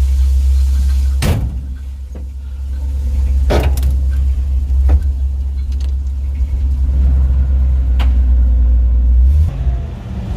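Chevrolet dump truck, loaded with about five tons of rock, heard from inside the cab: a deep, muffly engine and road drone. Four sharp knocks or rattles come through it at intervals.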